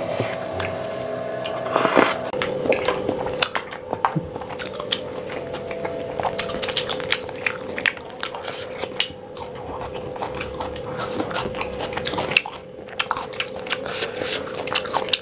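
Close-miked chewing and biting of a mouthful of chili paneer: irregular wet mouth clicks and smacks, over a faint steady hum.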